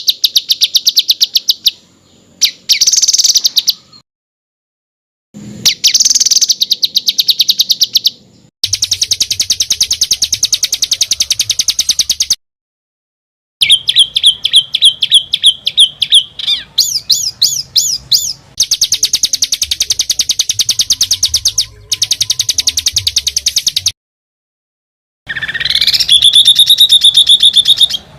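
Songbird recordings strung together as a masteran tutor track: loud, tight rolls of very fast repeated notes, runs of sharp chirps and rising whistled sweeps, broken three times by abrupt cuts to silence. Near the end a rising whistle glides up into a wavering held note.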